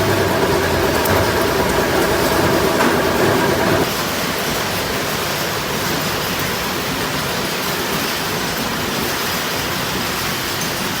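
Machinery running with a steady hum over a noisy hiss; the hum cuts off abruptly about four seconds in, leaving only the steady hiss.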